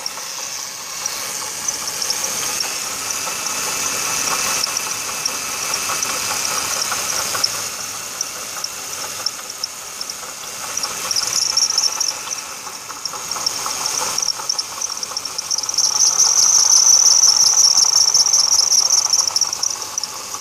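Ford 3.0 L Vulcan V6 running with a failing water pump bearing: rapid, high-pitched chirping with a grumbly knocking beneath it, the sign of a worn pump bearing. The chirping swells louder in the last few seconds.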